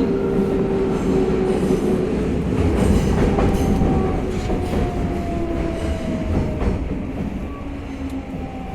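Tokyo Metro 05 series train with Mitsubishi IGBT-VVVF inverter control, running on the rails with its inverter whine sliding down in pitch as it slows, typical of braking into a station. The overall noise eases off toward the end.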